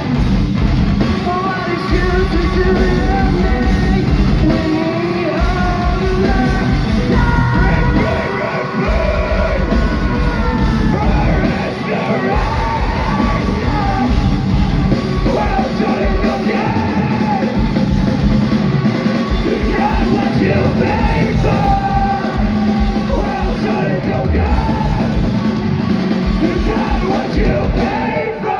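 Post-hardcore band playing live: loud drums and guitars, with both sung and yelled vocals.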